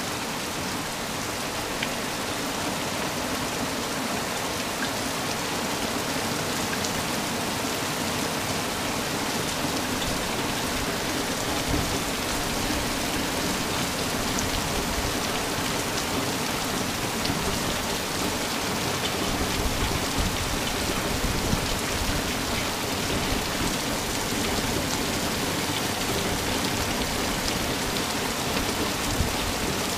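Torrential rain pouring down steadily, a continuous hiss of heavy rain with scattered sharper drop hits.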